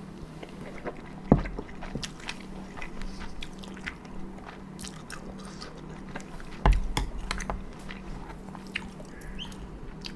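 Close-miked chewing of a mouthful of cold buckwheat noodles: many small wet clicks and smacks of the mouth, with two sharper knocks, one about a second in and one near the seventh second. A faint steady low hum runs underneath.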